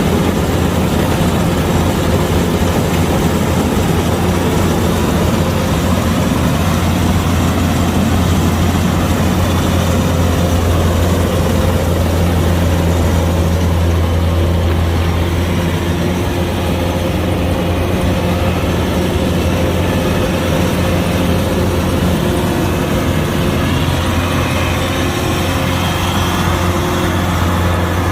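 Kubota DC-105X combine harvester's diesel engine running steadily at a constant speed, with a deep, even hum.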